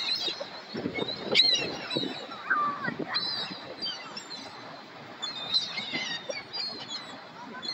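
A flock of seagulls calling over one another in short, high, overlapping squeals while they fight over food, busiest in the first three seconds and again around six seconds in.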